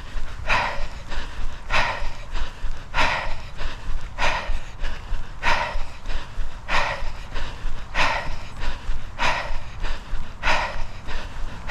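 A person breathing hard and rhythmically, about one loud breath every second and a quarter, over a steady low rumble.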